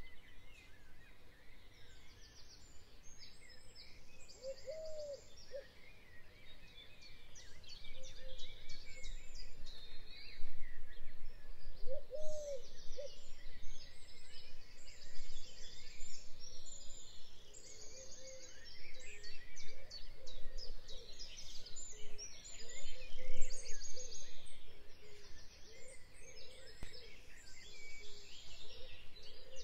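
Birds chirping in a dense chorus of many overlapping calls and trills, busier from about a third of the way in, with a couple of lower, curving notes standing out about 5 and 12 seconds in.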